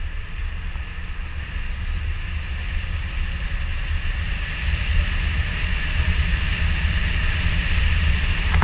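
Wind buffeting an action camera's microphone, with steady tyre and drivetrain noise from a mountain bike rolling along a road. The noise slowly gets louder.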